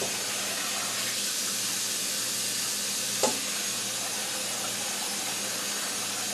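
Kitchen tap running steadily into the sink as liver pieces in a bowl are rinsed. A single short knock about three seconds in.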